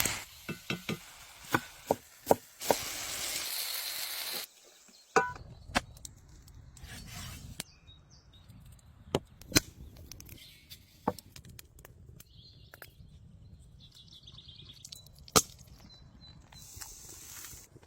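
Food-preparation sounds on wood: a quick run of sharp taps and knocks, then scattered single knocks, with a short hiss about three seconds in.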